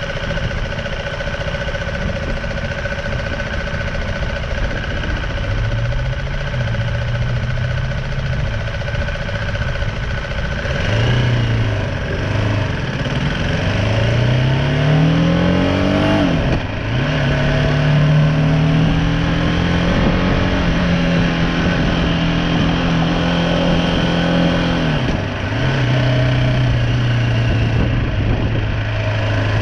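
BMW G310R single-cylinder motorcycle engine under way, pulling through the gears: the revs climb and drop sharply at each shift, then hold steady at cruising speed. Steady road and wind noise throughout.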